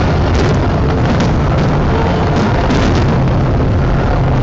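Fireworks finale barrage: many aerial shells bursting in quick succession, merging into a continuous deep rumble with sharp cracks and crackling scattered throughout.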